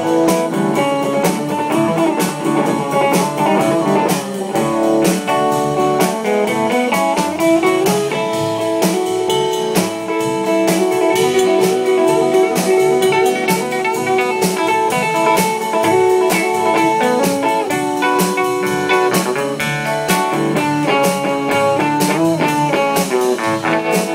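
A live blues band playing an instrumental passage of a song: a guitar plays the lead line over a steady drum beat.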